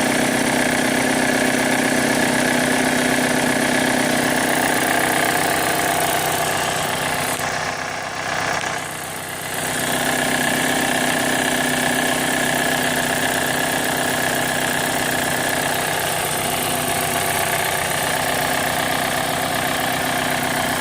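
2005 Chevy Cobalt's 2.2-litre Ecotec four-cylinder engine idling steadily, running fine somewhat, without the loud noise it makes after being shut off and restarted, though it has logged a cylinder 4 misfire code (P0304). Around eight seconds in the sound briefly dips and goes duller for about two seconds.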